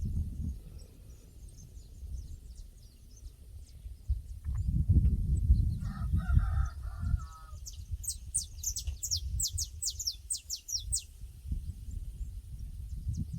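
Pasture ambience with a low rumble of wind. A rooster crows once about six seconds in. Then a small bird sings a rapid series of high, falling notes for about three seconds.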